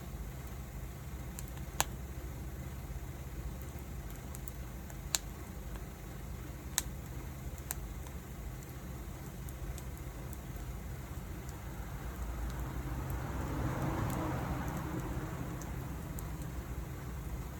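Wood fire burning: a steady low rush of flame with a few sharp, separate pops in the first half, then the flames swell louder for a few seconds about three-quarters of the way through.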